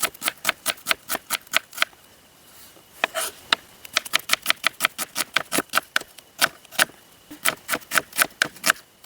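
A knife chopping onion in quick, even strokes, about five cuts a second, with a pause of about a second partway through before the chopping resumes.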